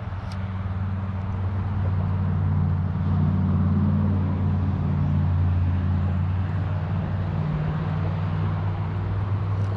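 Steady low rumble of road traffic, swelling about three to four seconds in as a vehicle goes by, over an even hiss.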